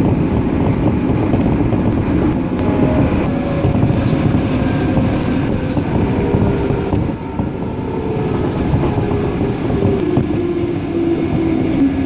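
Running noise of a 205 series electric train heard from inside the car, with a motor and gear whine that falls steadily in pitch as the train slows.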